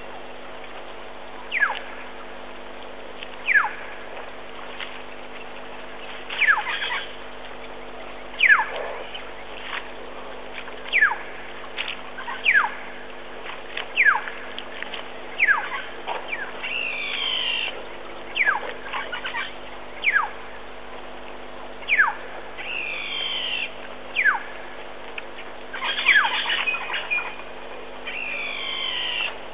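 A bird calling over and over, each call a quick falling whistle, about once every second or two. Several calls run into a short series of falling notes.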